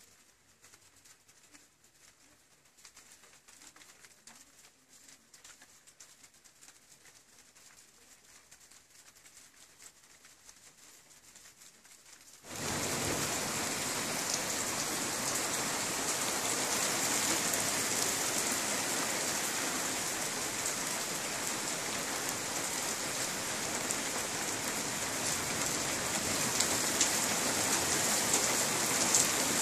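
Faint bird cooing over a quiet background. About twelve seconds in, heavy rain cuts in abruptly: a steady, loud downpour hiss with scattered drop clicks, as a thunderstorm's rain arrives.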